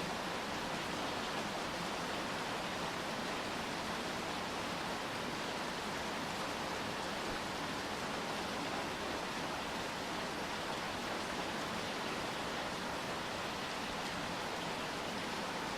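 Steady rainfall, an even hiss with no single drops or gaps standing out.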